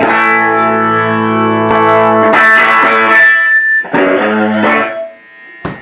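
Electric guitar through an amplifier, three chords strummed and left to ring, the second about two and a half seconds in and the third about four seconds in, with a short click near the end.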